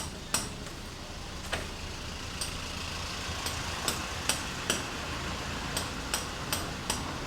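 Sharp hand-tool taps, like a hammer striking, about a dozen at an uneven pace over a steady low hum.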